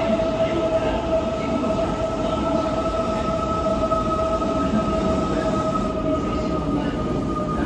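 Kintetsu Ise-Shima Liner limited express train pulling into the station, with a low rumble under a steady two-tone whine that drifts slightly lower as the train slows; the lower tone fades near the end.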